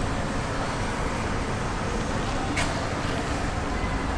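Steady background road-traffic noise, with a single short click about two and a half seconds in.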